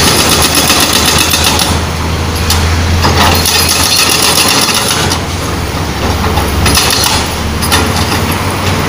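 Excavator-mounted hydraulic breaker hammering asphalt in bursts of rapid blows, with short pauses between bursts. Under it the excavator's diesel engine runs steadily.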